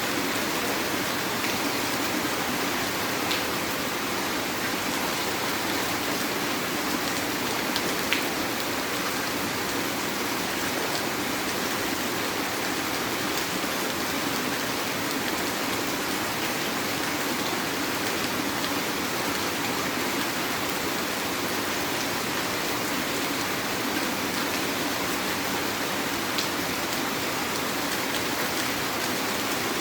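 Heavy rain falling steadily, an even hiss with a few sharper drop clicks now and then.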